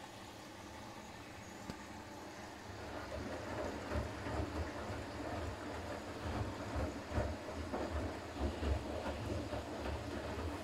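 Siemens iQ500 front-loading washing machine running: a steady hum, then from about three seconds in, irregular low thumps and rumbling as the drum turns.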